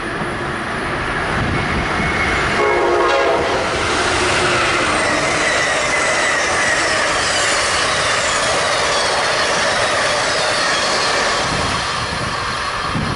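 Amtrak passenger train giving a short horn blast about three seconds in, then rushing past at speed with a steady roar of wheels on rail and thin high tones over it. The sound drops off near the end.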